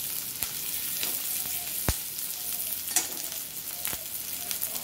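Sliced capsicum, carrot and onion sizzling in butter in a metal wok, with a flat metal spatula scraping and knocking against the pan several times as the vegetables are stirred, the sharpest knock a little before two seconds in.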